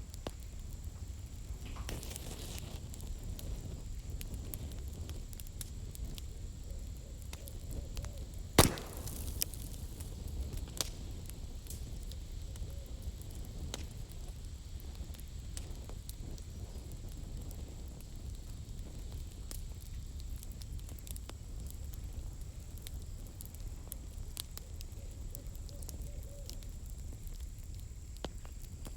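Campfire with firewood burning and crackling: scattered small snaps over a steady low rumble, with one sharp, loud pop about a third of the way through and a few smaller pops soon after.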